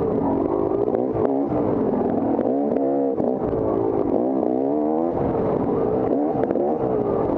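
Off-road dirt bike engine running under hard riding, its pitch rising and falling again and again as the throttle is worked, with scattered light clicks and clatter.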